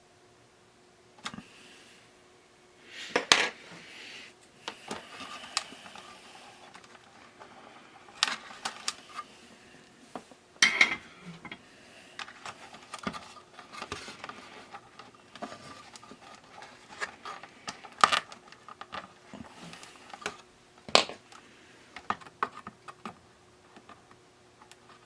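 Irregular clicks, taps and clinks of small tools and parts being handled on a workbench, with a few sharper clatters, over a faint steady hum.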